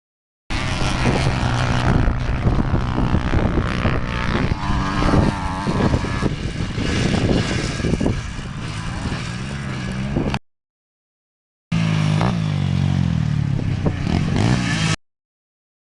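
Trail motorcycle engine running and revving on a dirt track, with rattling and rough noise over the engine. The sound starts abruptly about half a second in, cuts off dead about ten seconds in, resumes around twelve seconds and cuts off again near fifteen seconds.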